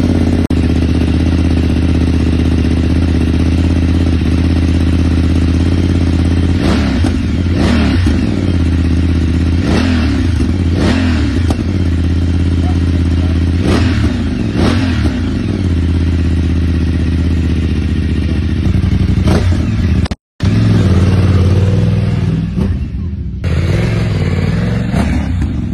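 Motorcycle engine idling, blipped up and back down in several quick throttle revs in the middle; the sound breaks off briefly near the end, then the idle resumes.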